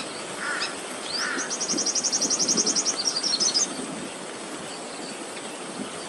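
A small bird calling: a couple of short rising chirps, then a rapid high-pitched trill of about ten notes a second for about two seconds, breaking into a few scattered notes. Steady background noise runs underneath.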